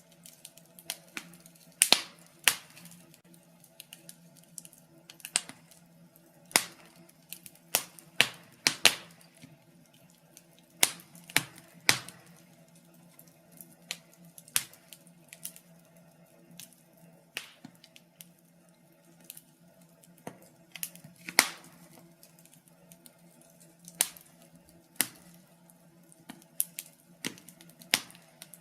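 Wood fire in a fireplace crackling: irregular sharp pops and snaps, a few of them much louder than the rest, over a faint steady hum.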